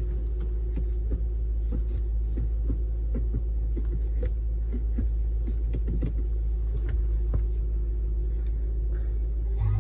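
2004 Audi S4's 4.2-litre V8 idling steadily on a cold start, still on its raised cold-start idle. Scattered light clicks sound over it.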